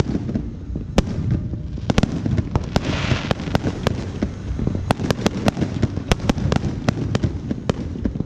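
Fireworks going off: a rapid, irregular string of sharp cracks and pops, densest about five to six seconds in, over a continuous low rumble of bangs, with a hissing crackle swelling briefly about three seconds in.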